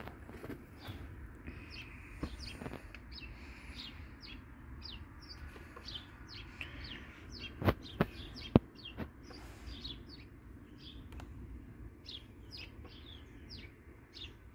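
Small birds chirping over and over in short, quick downward-sliding notes, with a low rumble underneath. About eight seconds in come three sharp knocks close together, the loudest sounds.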